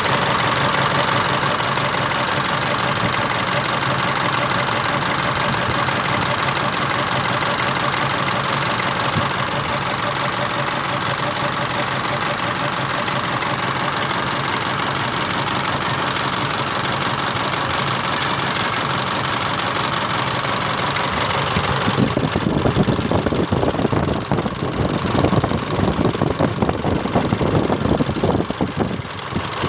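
Isuzu Panther engine idling steadily with a knock, an engine described as broken. About two-thirds of the way through, the sound turns rougher and more uneven, heavier in the low end.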